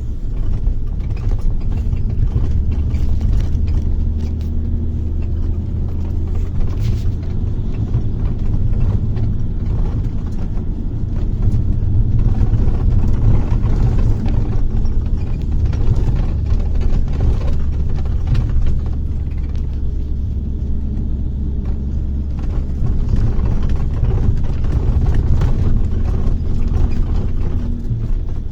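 Bus engine and road rumble heard from inside the cabin: a steady, loud low rumble with a faint engine drone that shifts in pitch now and then.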